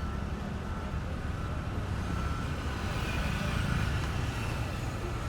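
An engine running nearby with a steady low rumble.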